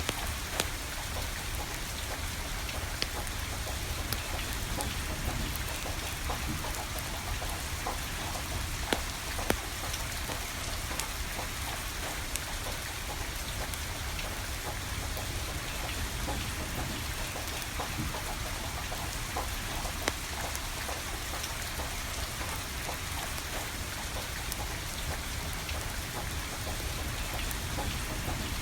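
Steady rain pattering, with a few sharp pops and crackles from a burning wood fire scattered through it.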